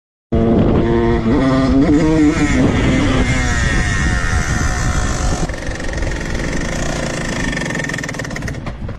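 Two-stroke motorcycle engine running hard at high revs, cutting in abruptly just after the start; its pitch wavers up and down for the first couple of seconds, then it holds a steady high-revving run that eases slightly near the end.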